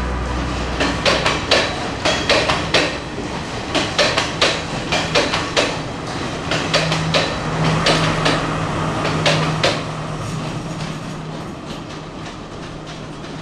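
A train's wheels clattering over rail joints in quick, irregular clusters of clacks. A steady low hum joins about halfway, and the clatter grows fainter near the end.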